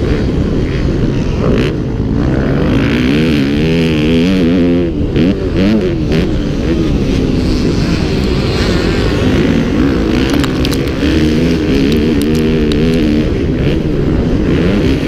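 Motocross bike engines revving up and down through the gears, loud and continuous.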